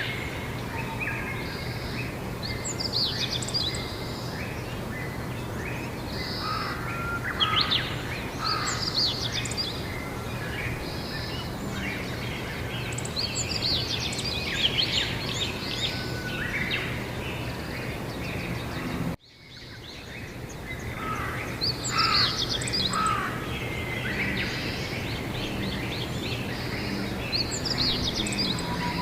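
Several songbirds singing and chirping in repeated short phrases over a steady low background hum. About two-thirds of the way through, the sound cuts out briefly and then fades back in.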